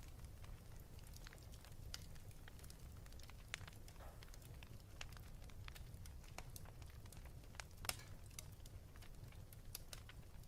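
Wood fire crackling in a fireplace: scattered sharp pops and snaps over a low, steady rumble, with two louder pops, one about a third of the way in and one near the end.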